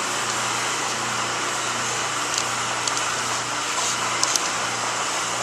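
Steady background noise with a low hum, like running machinery. There are a couple of faint clicks about four seconds in.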